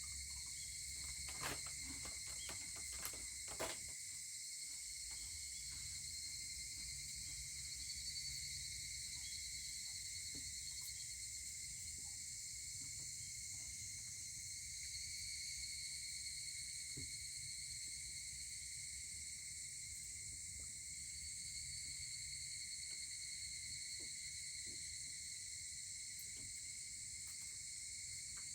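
Steady chorus of evening insects, a continuous high-pitched trilling. A few sharp crackles from the wood fire come in the first few seconds.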